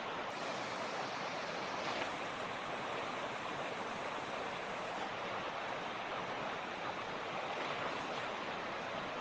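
A creek running steadily over rocks: a constant, even rush of water.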